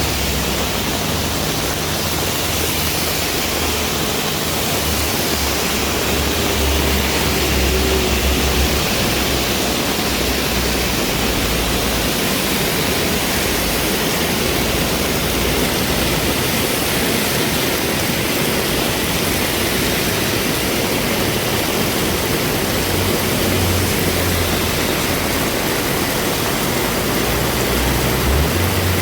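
Heavy rain falling steadily in a dense, even hiss. A deeper rumble swells under it twice, once a few seconds in and again near the end.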